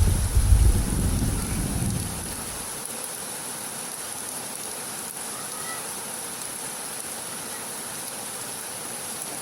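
Steady rain, heard as an even hiss. A low rumble of thunder fades away over the first two seconds.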